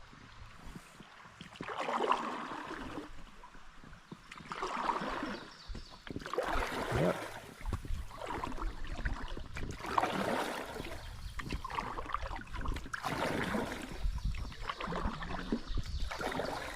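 Kayak paddle strokes in the water, with a splashing swish about every two to three seconds.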